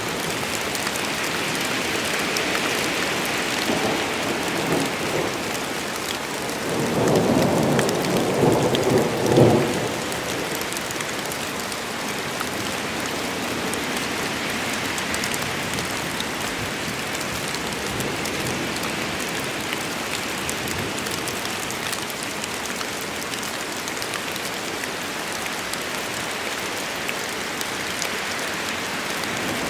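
Steady rain falling in a forest, with a roll of thunder rumbling in about six seconds in and cracking loudest just before the ten-second mark before it dies away.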